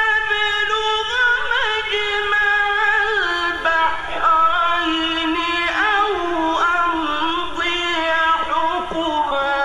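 Male Quran reciter chanting in the ornamented mujawwad style: one long melismatic phrase held on a single breath, the pitch turning and stepping down between sustained notes.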